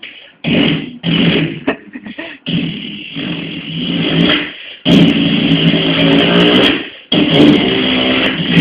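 A man imitating car engine and revving noises with his voice, in bursts: several short ones, then two longer ones of about two seconds each in the second half.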